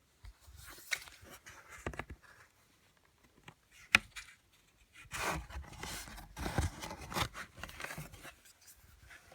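Pages of a picture book being handled and turned: faint paper rustling and scraping, with a sharp tap about four seconds in.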